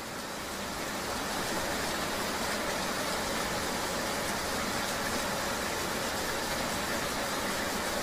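Steady rain-riding ambience: a vehicle engine running under an even hiss of rain and road noise. It rises slightly over the first second, then holds steady.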